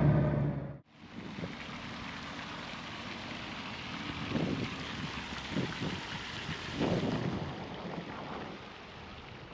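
A motorcycle engine running, cut off abruptly just under a second in; then wind noise on the microphone, with a few gusty rumbles.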